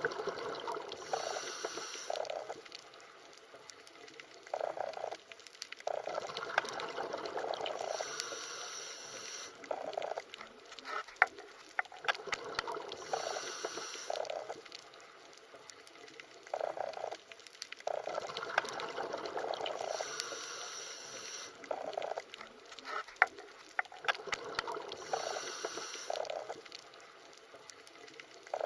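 Underwater ambience of bubbling, gurgling water with scattered sharp clicks, swelling and fading in a pattern that repeats about every 12 seconds.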